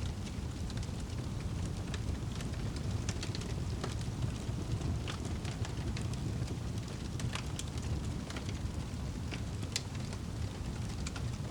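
Wood fire burning in a fireplace: a steady low rumble of the flames with scattered sharp crackles and pops, several a second at times.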